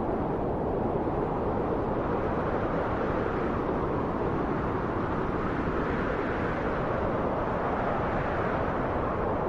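Steady wind blowing: an even, low-pitched rushing with no gusts or breaks.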